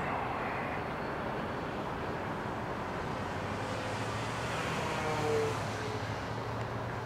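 Twin electric motors and propellers of an FMS B-25 Mitchell RC model plane whining in flight, growing louder with a peak about five seconds in, then easing off, over a steady rush of wind noise.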